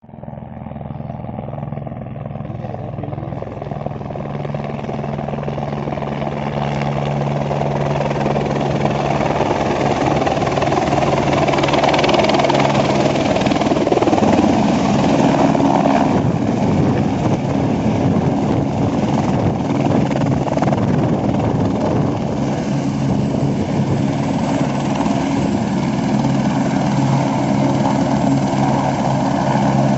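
Helicopter engine and rotor running steadily, growing louder over the first ten seconds or so and then holding level.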